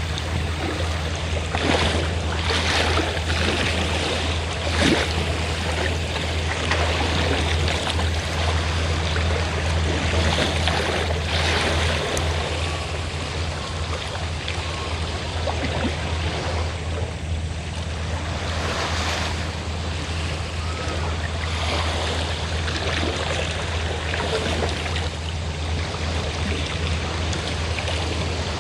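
Sea waves washing in against the shore, swelling and falling every few seconds. Under them runs a steady low drone, a fishing boat's engine.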